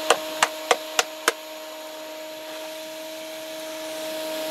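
Shop vac motor running with a steady whine while its hose is clogged with dirt, with five sharp knocks about three a second in the first second and a half, then the whine alone.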